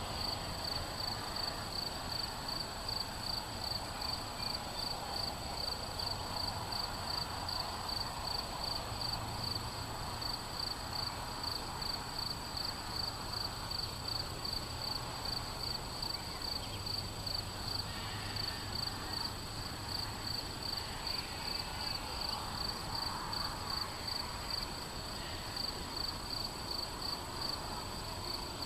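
A cricket chirping steadily, an even run of short high chirps about two to three a second, over a faint low background murmur.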